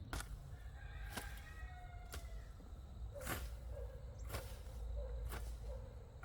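A steady series of sharp strikes, about one a second, typical of hand work with a tool in the field. A faint whistling call sounds early on.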